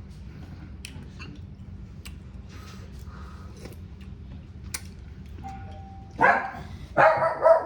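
A dog barks in two loud bursts near the end, over a low steady background with a few faint clicks.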